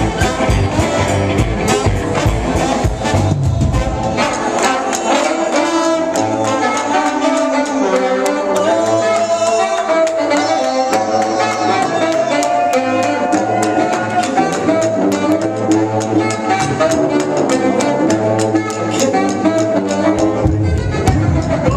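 Band music with a horn section playing a melody over a steady beat; the bass and drums drop out about four seconds in and come back near the end.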